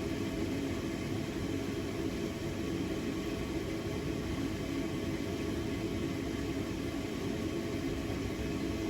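Steady, even rumbling noise of blacksmith shop equipment running, with a faint hum and no strikes or sudden sounds.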